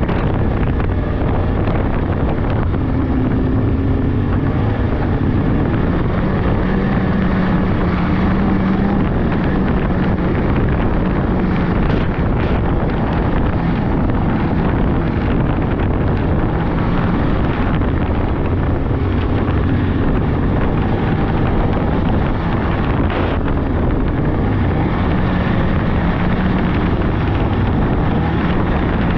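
Polaris 600cc two-stroke snowmobile engine running steadily while riding, its pitch drifting slightly up and down, with wind buffeting the microphone.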